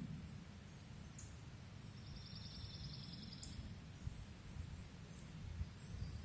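Outdoor ambience: a steady low rumble with a small bird's trill of rapid high notes, about a second and a half long, a couple of seconds in.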